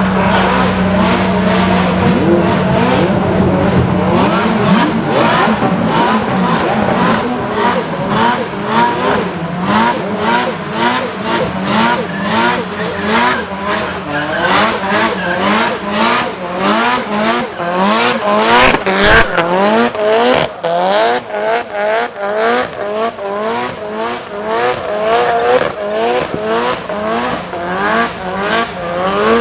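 Modified Nissan Silvia engine revving hard in quick repeated rising sweeps, a couple of times a second, as in drifting, with tyres squealing.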